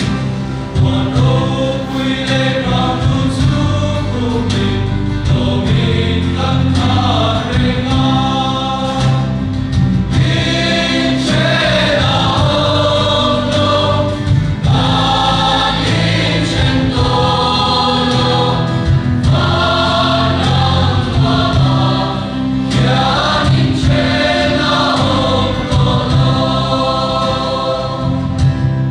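A group of students singing a Christian hymn together in chorus, with steady instrumental accompaniment, ending near the close.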